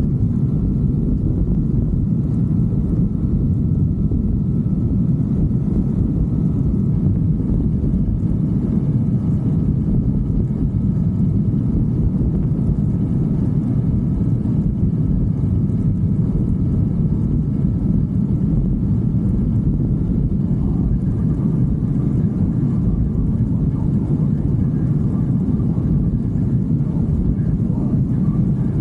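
Steady low rumble of a motorcycle ride: wind rushing over the microphone together with the engine running.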